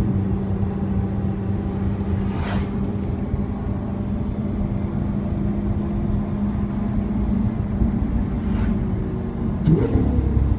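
Lamborghini Aventador LP700-4's V12 engine heard from inside the cabin, a steady cruising drone over tyre and road rumble. There is a short whoosh about two and a half seconds in, and near the end the engine note rises briefly.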